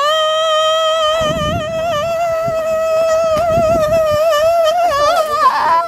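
A woman's voice singing one long held high note with a slight waver, breaking off near the end.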